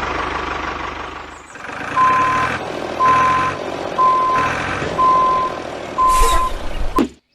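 Truck reversing alarm beeping five times, about once a second, each beep a steady high tone about half a second long. Before it comes a steady mechanical running noise lasting about a second and a half. A sharp click comes near the end, and then the sound cuts off suddenly.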